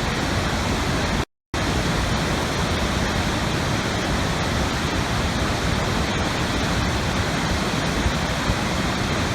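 Steady rushing of water, like a waterfall or fast stream, an even unbroken hiss. It cuts out completely for a split second about a second in, then resumes unchanged.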